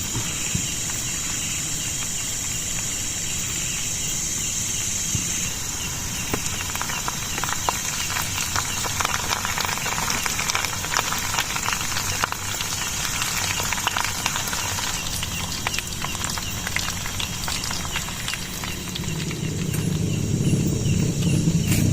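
Steady high buzzing of insects at a campsite, with irregular crackling ticks through the middle and a low rumble building near the end.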